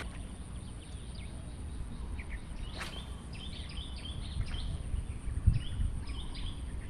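Birds chirping in short high notes, in two runs about three and six seconds in, over a steady low rumble of wind on the microphone, with one brief sharp noise just before the first run.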